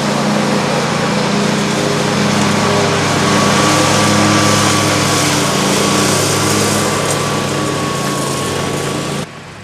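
Small engine running steadily and loudly close by, with a dense noise over it, then dropping away abruptly near the end.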